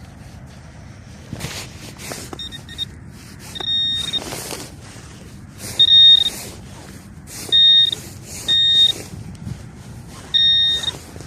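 A metal-detecting pinpointer gives six short, high beeps at uneven intervals as it is moved over a target in the dug soil. Rustling and scraping bursts come between the beeps, over a steady low rumble of wind on the microphone.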